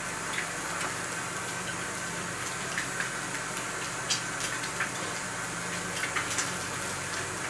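Food frying in a pan on a camp stove: a steady sizzling hiss with a few light clicks.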